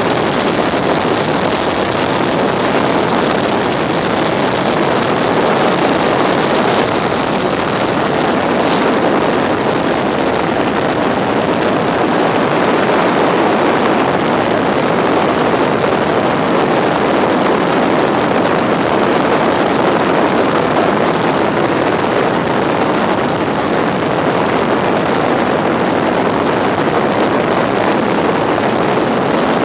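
Tour helicopter in flight, heard from inside the cabin: a loud, steady rush of engine and rotor noise.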